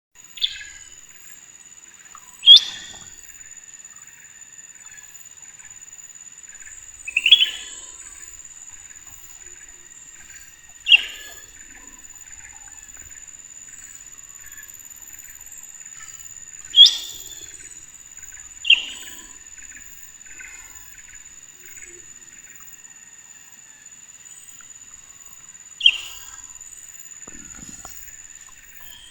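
A bird giving short, sharp chirps at irregular intervals of a few seconds, seven in all, over a steady high thin tone and faint rapid chirping.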